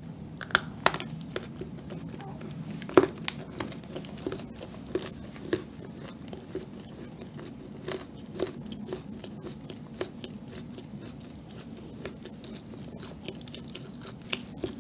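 Bites and chewing of a pumpkin cheese madeleine with an orange white-chocolate coating. A few sharp crunches come in the first seconds as the coating cracks, the loudest about three seconds in, then steady chewing with scattered small clicks.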